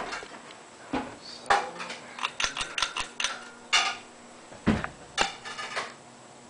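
Irregular light clinks and clicks, about a dozen over five seconds, over the faint steady hum of a ceiling fan motor running on low speed; the clinks stop near the end, leaving only the hum.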